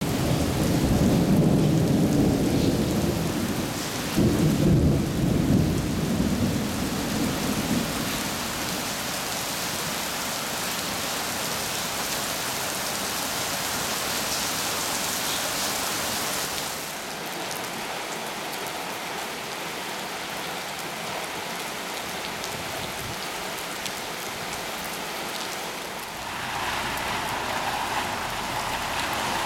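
Heavy rain pouring onto pavement, with a low rumble of thunder over the first several seconds. Near the end, water gushes up out of a sewer drain, a sign that the sewers are saturated and overflowing.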